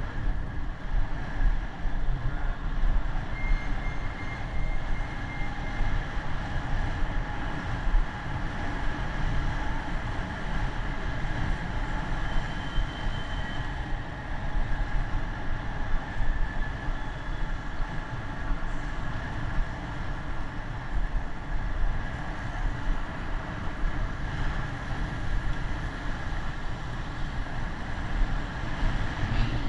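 Continuous low rumble of wind and road noise picked up on the mic while riding a bicycle, with uneven loudness throughout.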